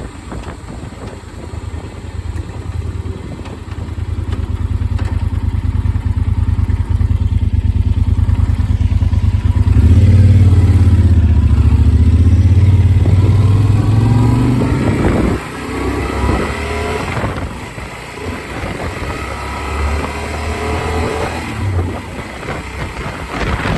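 Motorcycle engine under acceleration, growing louder and rising in pitch to a peak, then dropping off suddenly about fifteen seconds in and running lower after that. Heard through a phone mounted on the rider's helmet.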